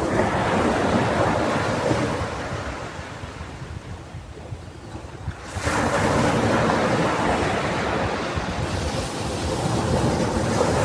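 Ocean waves breaking and washing up on a beach, with wind on the microphone. The surf swells and ebbs, then a new wave crashes in sharply about halfway through.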